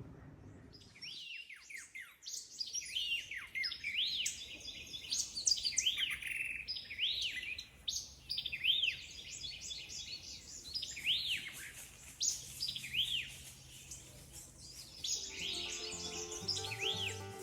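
Songbirds singing, with many quick rising-and-falling chirps overlapping in a dense chorus.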